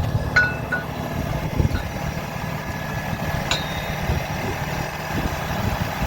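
Diesel truck engine idling steadily, with two short high beeps near the start and a click about halfway through.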